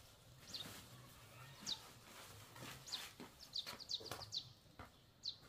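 Bird chirping: short, high, falling chirps come at irregular intervals, several in quick succession around the middle. A few faint knocks are mixed in.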